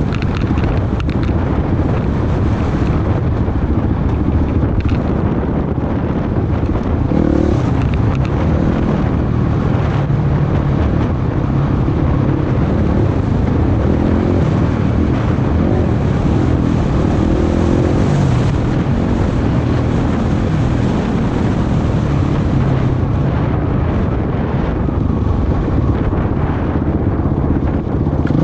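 Off-road vehicle engine running continuously while riding a trail, its pitch rising and falling with the throttle, with wind buffeting the microphone.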